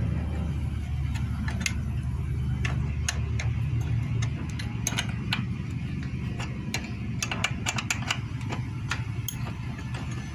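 Irregular sharp metallic clicks and clinks of hand tools and parts being handled during a motorcycle engine teardown, over a low steady hum that is strongest in the first four seconds.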